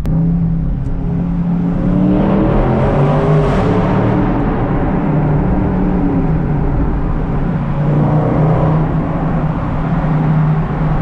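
2019 Dodge Charger Scat Pack's 6.4-litre 392 Hemi V8 running on the stock exhaust while driving. The engine note rises and eases off a couple of times over steady road noise.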